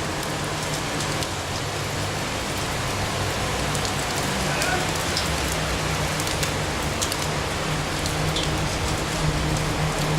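Steady rushing water noise, like heavy rain, over a low steady hum. Both cut off abruptly at the very end.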